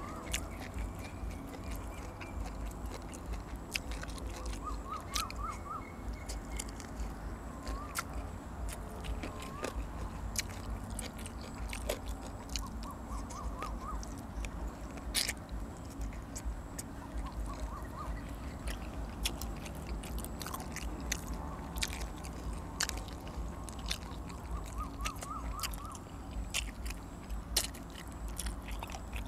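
A person chewing and biting close to the microphone, eating rice noodles in curry with fresh vegetables, with many sharp wet mouth clicks. Short runs of high chirping notes recur about four times in the background over a steady low rumble.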